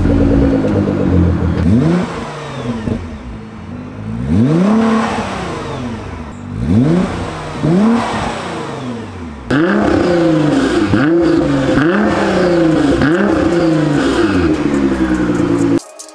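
Nissan R35 GT-R's twin-turbo V6 revved several times, each rev rising and falling in pitch. About two thirds in, the sound changes to a quicker run of short throttle blips, roughly one a second, through the car's stock exhaust.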